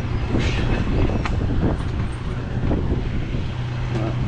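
Steady low engine drone with a constant hum and rumbling noise, with a few faint clicks over it.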